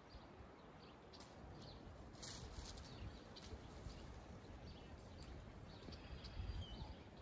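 Faint outdoor pond-side ambience with a few short, distant bird chirps, and a brief rush of hissing noise about two seconds in.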